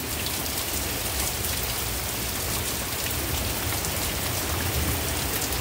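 Heavy rain pouring down in a thunderstorm, a steady, unbroken hiss of downpour.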